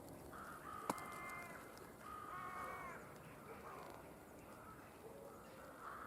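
A distant bird calling: two drawn-out calls in the first three seconds, then fainter ones. A single sharp click comes about a second in.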